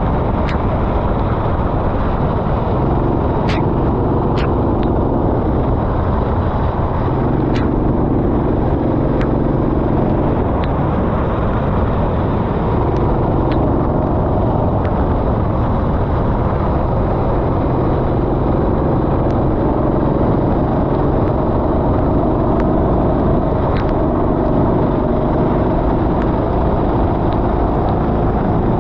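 Go-kart engine running at race pace, its pitch rising and falling over several seconds as the throttle opens and closes through corners, over a steady rush of noise, with a few sharp clicks.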